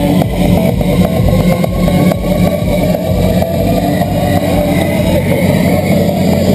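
Audi S2's turbocharged five-cylinder engine running steadily and loudly.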